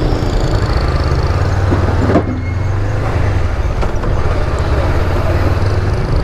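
Honda CBR500R's parallel-twin engine running steadily at low speed in heavy traffic, over road noise, with a short sharp sound about two seconds in.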